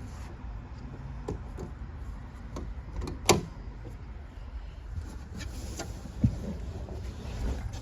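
A few sharp clicks and knocks over a low, steady background, the loudest about three seconds in; no engine is running yet.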